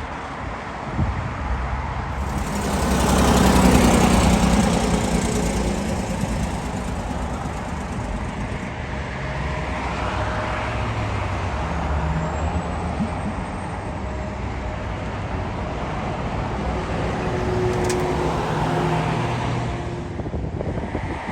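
Engine noise outdoors: a steady rumble with a few held tones swells loudly as something passes about three to five seconds in, then settles back to a steady drone.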